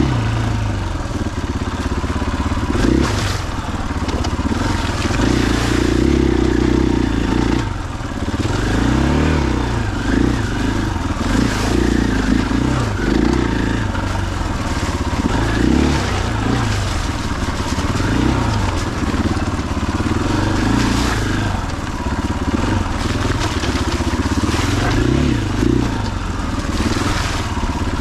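A 2021 KTM 500 EXC-F's single-cylinder four-stroke engine being ridden off-road, its pitch rising and falling every couple of seconds as the throttle is worked on and off.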